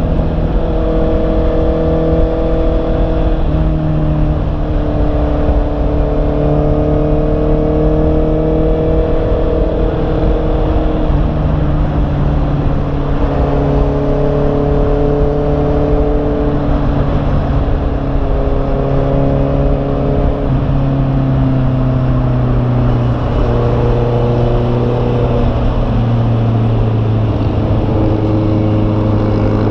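2021 Honda CB650R's inline-four engine running on the move, its note stepping up and down several times with throttle and gear changes, over a steady low rush of wind noise.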